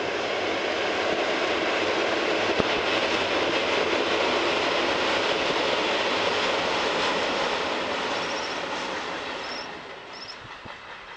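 Trenitalia regional passenger train running across a river bridge: a steady rumble of wheels on rail that swells as the train passes, holds for several seconds, and fades away about nine seconds in.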